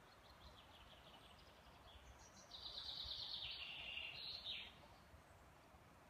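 A songbird singing: faint quick notes, then a louder rapid trill from about two and a half seconds in that steps down in pitch and ends with a short higher note, over faint forest background noise.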